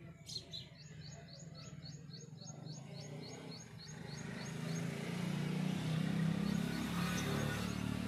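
A small bird chirping rapidly and evenly, about four to five high chirps a second, for the first few seconds. Under it a low rumble grows louder through the second half and becomes the loudest sound.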